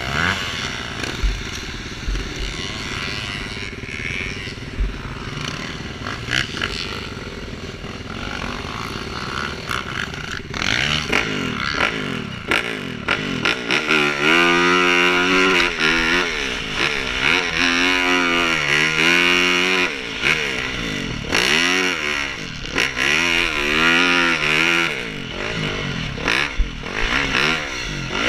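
Motocross bikes racing: engine noise further off at first, then from about eleven seconds in the engines come close and loud, revving up and dropping back again and again as the riders accelerate and shift.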